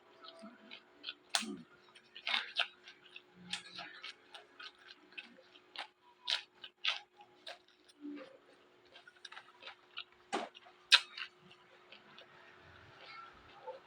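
Close-up crunchy chewing of raw vegetables: many crisp, irregular crunches and clicks, a few of them much louder, over a faint steady hum.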